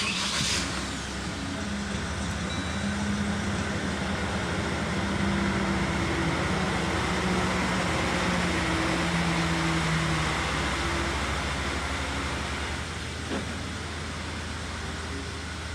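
LDV G10 van engine running steadily, with a brief burst of noise at the very start and the sound easing slightly in level about twelve seconds in.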